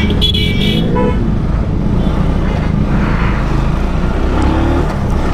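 Benelli motorcycle engine running under way, its pitch rising a little after the middle as it speeds up. A vehicle horn toots briefly near the start.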